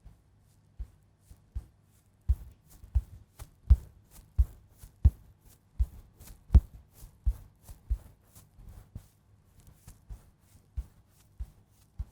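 Soft, irregular tapping, about one or two taps a second, with quiet handling sounds between them: ASMR makeup-simulation tapping. The taps grow firmer about two seconds in.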